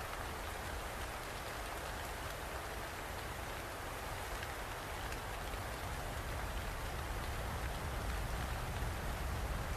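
Steady rain falling, with a dense patter of drops on a surface and a low rumble underneath.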